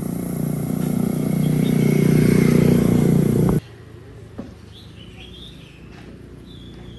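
A motor running with a steady low drone that grows louder, then cuts off abruptly about three and a half seconds in. After it, birds chirp softly a few times.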